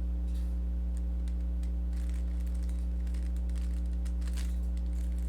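Steady electrical mains hum, with faint scattered clicks of a Rubik's cube's layers being turned through an algorithm.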